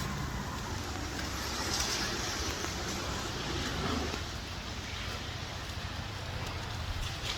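Road traffic on a rain-soaked street: car engines and tyre hiss on the wet road with rain falling, a steady wash of noise that swells now and then as vehicles pass.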